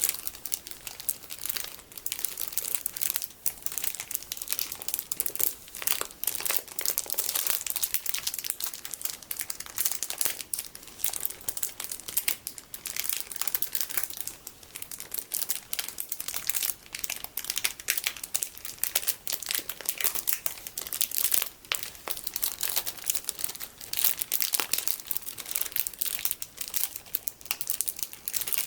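Plastic packaging full of colourful sticky beads being crinkled by hand: a dense, unbroken run of small, irregular crackles.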